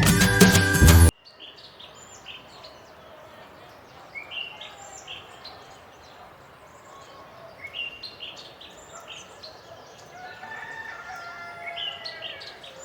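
An intro tune cuts off about a second in, giving way to a faint outdoor bird ambience: many short chirps from small birds, with a longer drawn-out call near the end.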